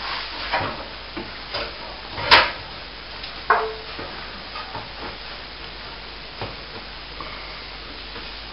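Scattered light knocks and scraping as a plasterboard ceiling sheet is shifted and straightened into place, with one sharper knock about two and a half seconds in.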